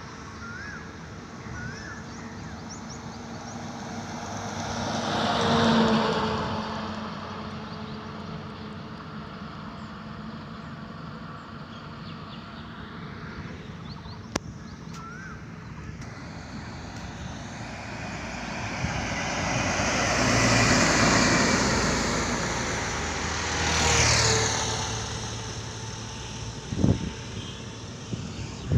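Road vehicles passing by on a highway one after another, each swelling and fading with engine and tyre noise: one about six seconds in, a longer, louder passage around twenty seconds in and another shortly after. Faint steady traffic noise lies between them.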